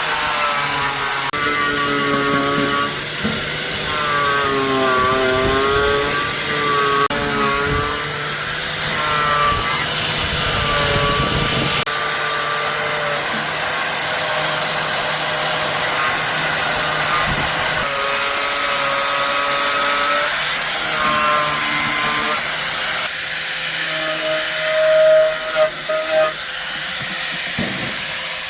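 A handheld electric power tool running continuously, its pitch wavering up and down as it is worked against a part. It drops slightly in level near the end, with a few brief surges.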